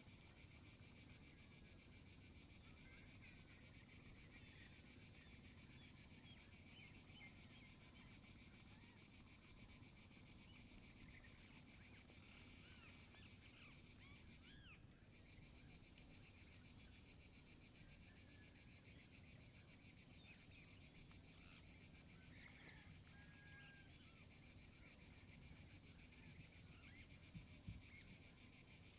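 Faint, steady insect chorus: a continuous high trilling that breaks off for a moment about halfway through, with a few short chirps scattered through it.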